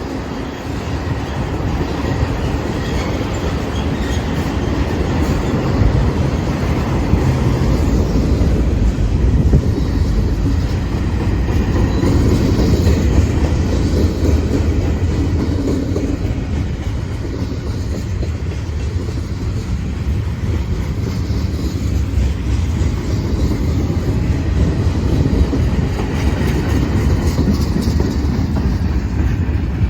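Freight cars of a CSX manifest train rolling past: a steady loud rumble with wheels clacking over the rails.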